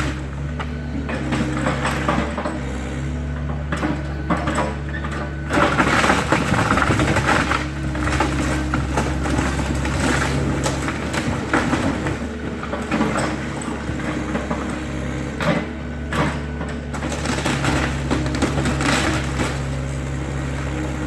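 Excavator engine running steadily under load, with repeated crunching and cracking of dry wood debris as the machine breaks up and gathers the wreckage of a demolished wooden garage.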